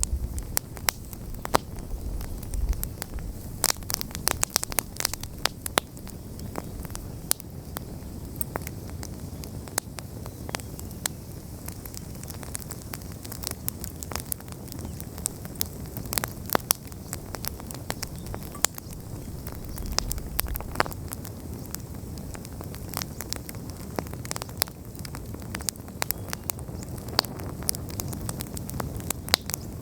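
Wood campfire burning, with a steady hiss under frequent sharp crackles and pops from the burning logs.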